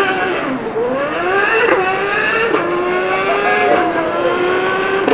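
A man imitating a 600cc sport bike's engine at full throttle with his mouth: the pitch climbs and drops sharply at each quick upshift, three or four times, then holds a steadier note.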